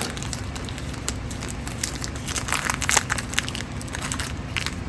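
Plastic wrapper crinkling and crackling in irregular bursts as a package is handled and opened.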